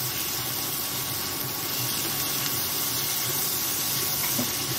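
Chopped onions and tomatoes sizzling in butter and oil on a hot tava griddle, a steady hiss as they are stirred.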